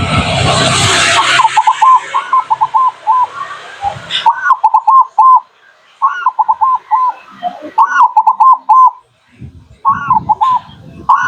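Zebra dove (perkutut) song: repeated phrases of quick, staccato cooing notes, about six phrases. A rushing noise runs under the first four seconds and cuts off abruptly.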